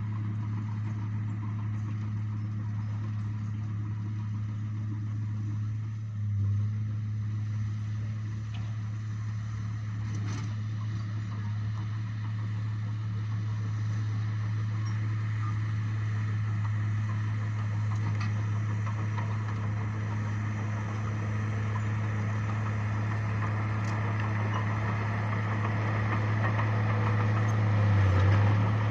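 Bulldozer's diesel engine running steadily with a deep, even hum, swelling briefly about six seconds in and again near the end as it takes load.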